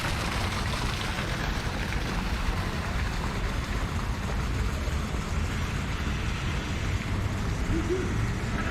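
Wind buffeting the microphone: a steady rushing with a choppy low rumble.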